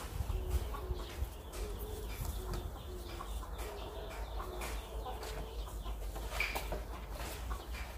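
A bird cooing, a short low note about twice a second, over a steady low rumble. Scattered light clicks and rustles come from the nylon fishing net being hauled off the truck bed.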